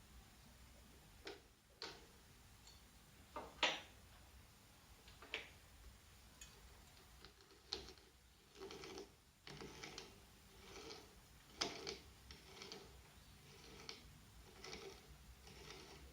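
Faint, irregular clicks and knocks, the loudest about four seconds in and again near twelve seconds, with several short scraping sounds in the second half: small objects or tools being handled.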